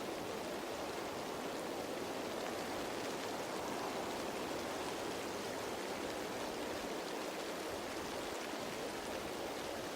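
Steady rain falling on leaves, an even wash of drops that does not change.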